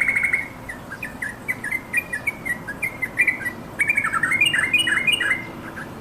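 Yellow-vented bulbul calling: a rapid phrase fading out just after the start, then a string of short chirps, then a quick burst of notes about four seconds in that stops shortly before the end.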